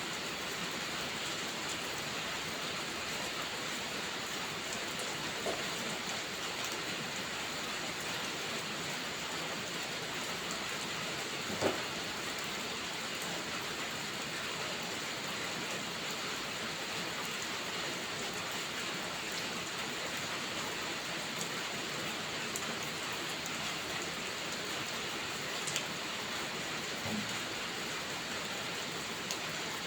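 Steady, even rainfall with no let-up, broken by a few sharp isolated pops, the loudest about twelve seconds in.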